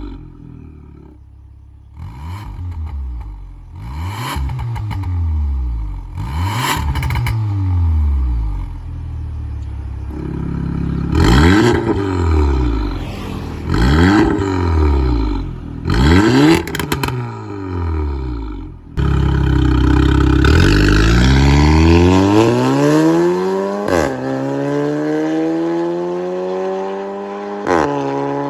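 Porsche Macan engine free-revving through an aftermarket valved exhaust with a high-flow catalytic downpipe. A series of short throttle blips rises and falls in pitch, then two longer revs climb higher before it drops back to idle near the end. A sharp crack sounds at the top of several revs.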